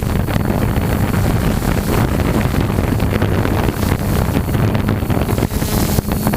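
Wind buffeting the microphone of a flying multirotor drone, over the steady hum of its propellers and motors.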